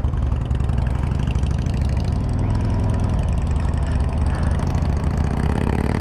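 Harley-Davidson Road Glide's V-twin engine running steadily, heard from on the bike with a rush of wind and road noise over it.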